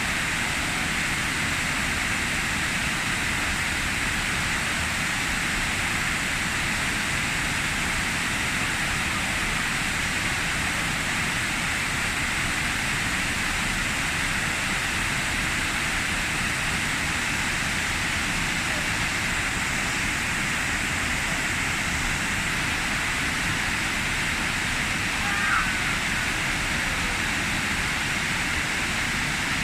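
Waterfall rushing in a steady, unbroken roar of falling water. A brief, short high chirp cuts through it once, near the end.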